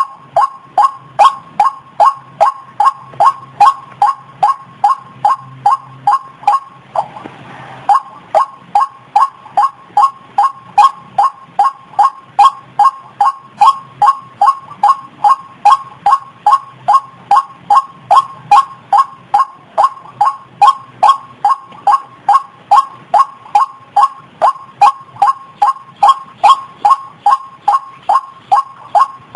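White-breasted waterhen calling: a fast, monotonous series of identical short notes, about three a second, with a brief break about seven seconds in.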